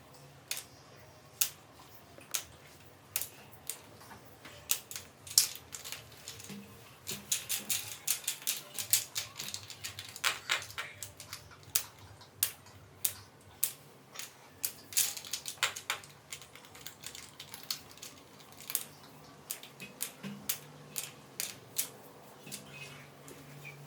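A run of sharp, irregular clicks and taps, a few a second, busier in stretches, over a faint low hum.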